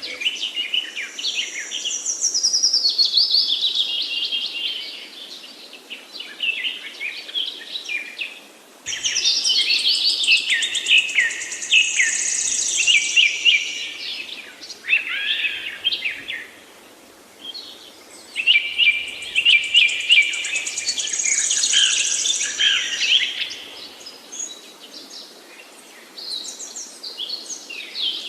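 Songbirds singing in a forest: bursts of rapid, varied, high-pitched song phrases lasting several seconds, with short quieter pauses between them, over a faint steady background hiss.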